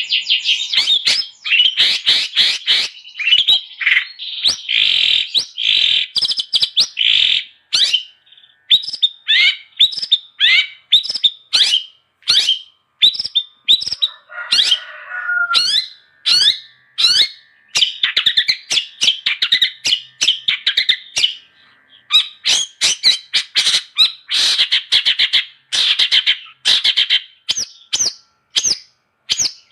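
Long-tailed shrike (cendet) singing steadily: a fast run of sharp chirps and short rattled phrases with brief gaps, and a rougher, lower call about halfway through.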